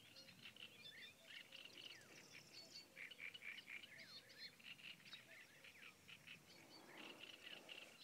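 Faint background chorus of small birds chirping and calling, many short quick notes overlapping, with a faint steady low tone under them.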